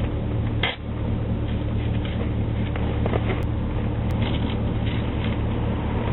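Car running: a steady low drone of engine and road noise, with a few brief clicks, one about half a second in and one near the end.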